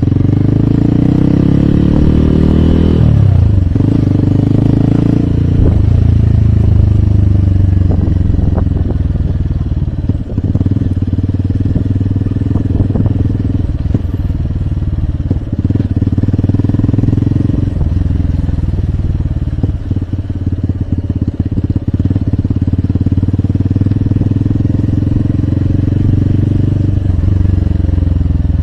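Hero Hunk motorcycle's single-cylinder engine and exhaust heard from on the bike while riding. The revs climb for about three seconds and drop sharply at a gear change, then the engine runs at a steady cruise with small throttle changes.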